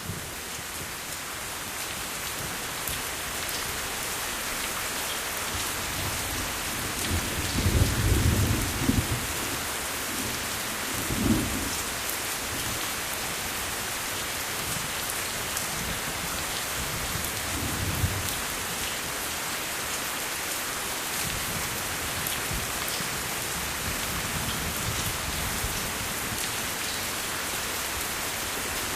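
Steady rain falling, with low rolls of thunder: a long rumble about a quarter of the way in, a shorter one a few seconds later, and a softer one just past the middle.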